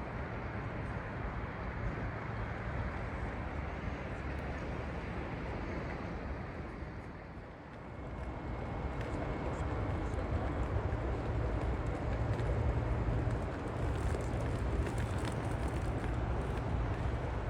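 Steady rumble of a moving vehicle. It dips briefly about seven seconds in, then runs louder.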